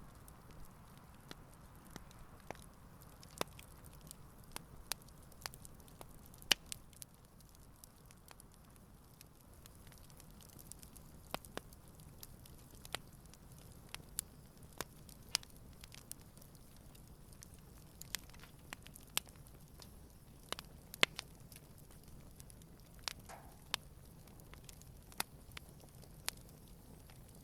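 Campfire wood burning with irregular sharp crackles and pops over a soft low hiss.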